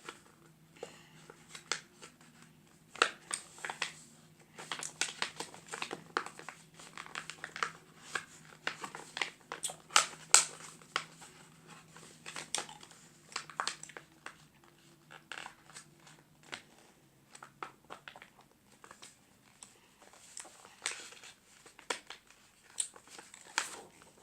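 A sheet of paper being folded and creased into a paper airplane: irregular crinkling and sharp rustles as the corners are folded down.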